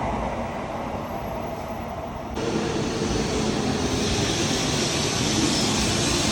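Shinkansen train running at a station: a steady rushing rumble that steps up suddenly about two and a half seconds in and grows brighter toward the end.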